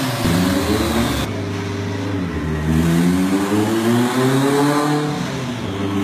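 Turbocharged Honda B18 four-cylinder engine revving on a chassis dyno. Its pitch rises, drops off about a second and a half in, climbs again for a few seconds, then falls near the end.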